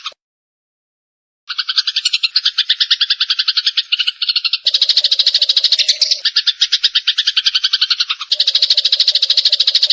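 Eurasian tree sparrows (burung gereja) giving a fast, continuous chatter of short chirps, the aggressive 'fighting' call. It is silent for about a second and a half at the start, then the chatter resumes and changes abruptly twice, as edited takes are joined.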